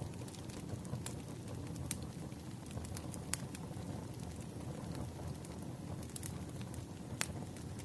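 Firewood burning with a steady low rumble of flame and scattered sharp crackles and pops. The clearest pops come about two, three and seven seconds in.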